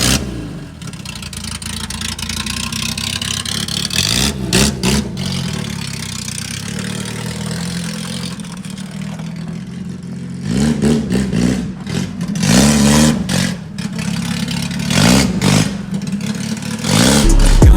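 Car engine idling and revved several times, its pitch rising and falling with each rev.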